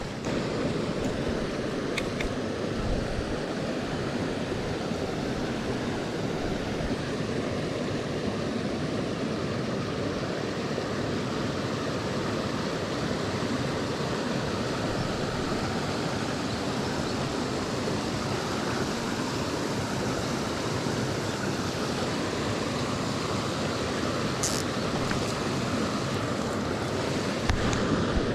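Small mountain creek running steadily over rocks, a constant rush of flowing water, with a soft knock near the end.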